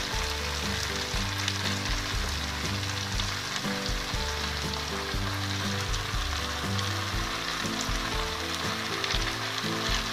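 Bottle gourd leaves and stems frying in oil in a pan with vegetables, a steady sizzle with fine crackles.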